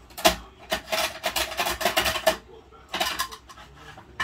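Hard plastic clattering and scraping from a Bruder toy garbage truck and its toy bins being handled: a sharp clack, then a dense run of rattling and scraping for about a second and a half, and a shorter clatter near the end.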